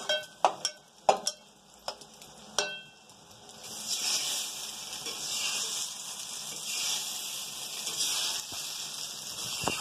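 A spoon stirring Maggi noodles in an aluminium pot, clinking and knocking against the metal a handful of times. Then, from about three and a half seconds in, a steady frying sizzle from food cooking on the stove.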